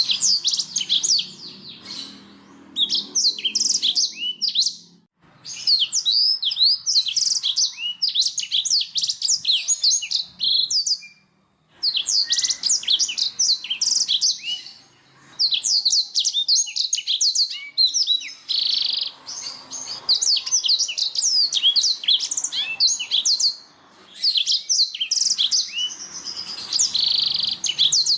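Domestic canary singing in long runs of rapid, high-pitched trills and chirps, broken by short pauses every few seconds.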